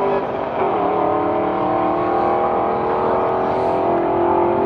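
V8 of a 2002 Pontiac Trans Am WS6 (LS1, with a mild cam, long-tube headers and dual exhaust) running hard at high revs. Its pitch drops briefly about half a second in, then climbs slowly and steadily.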